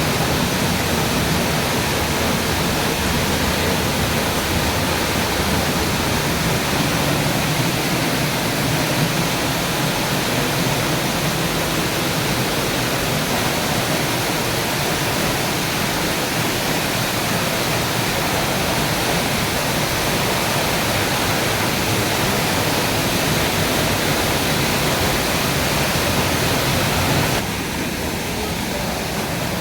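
Waterfall rushing: a steady, loud roar of falling water. It drops a little in level shortly before the end.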